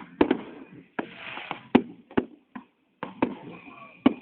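Fireworks going off: about nine sharp bangs in an irregular string.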